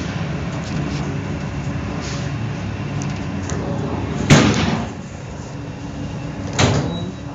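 Electric commuter train's running rumble heard from inside the carriage. About four seconds in there is a loud knock, and near the end a lighter one.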